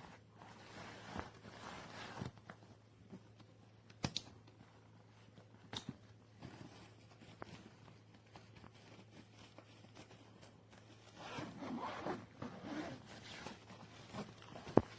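Faint handling of a fabric travel backpack: zippers being worked and nylon rustling, with scattered small clicks, busiest near the end. A faint steady low hum runs underneath.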